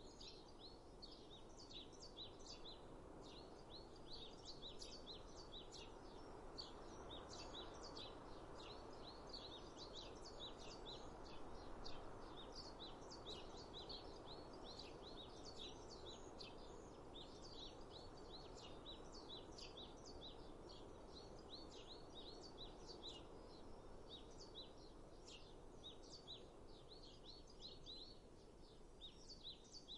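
Small birds chirping and twittering, many short high calls in quick succession, faintly, over a steady soft background rush.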